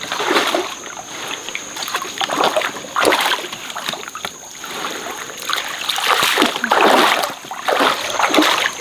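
Stream water splashing in irregular bursts, loudest about six to seven seconds in, with a faint steady high whine behind it.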